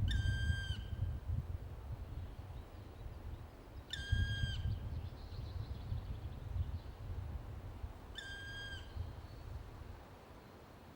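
Black woodpecker giving its long, plaintive single-note call three times, about four seconds apart, each note held level for under a second. A low rumble runs underneath.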